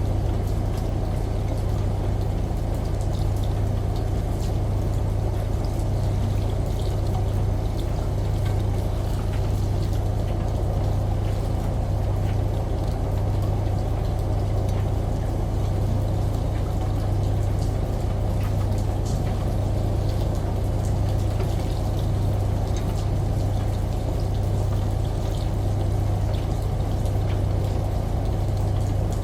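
Steady low hum of a washing machine that swells and eases slightly, under the continuous rush of running water and a scattering of light drip ticks.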